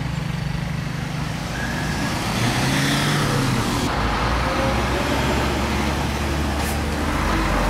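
Sewer-cleaning vacuum truck running, its engine and suction pump working steadily; the rushing hiss of the suction grows louder about two seconds in.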